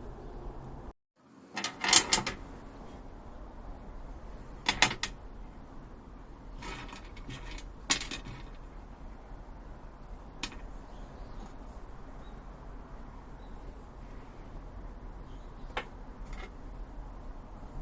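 Parts of a campfire table being handled and fitted: scattered clicks and knocks over a low steady hum, the loudest about two seconds in.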